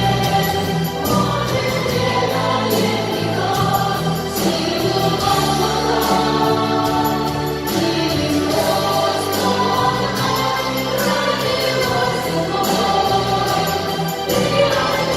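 Music: a choir singing a song, with sustained held notes.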